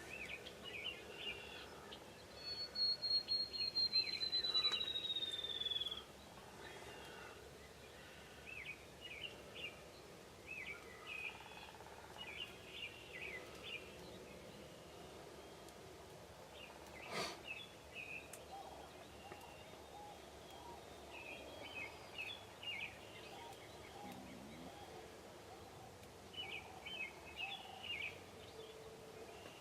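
Small birds chirping and singing over a quiet rural background. Near the start one loud, high whistle slides slowly down in pitch over about three seconds. A single sharp click comes about halfway through.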